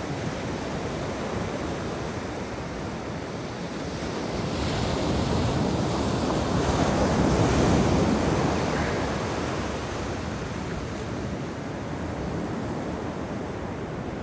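Sea waves washing onto the shore, one wave swelling louder a third of the way in, peaking past the middle and falling away, with some wind on the microphone.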